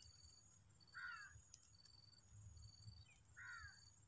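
Faint bird calls, a harsh caw heard twice, about a second in and again near the end, over a steady high hiss with a faint, evenly repeating high chirp.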